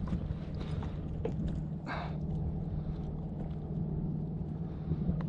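Steady low wind rumble on the microphone, with a few light clicks and knocks and one brief higher sound about two seconds in.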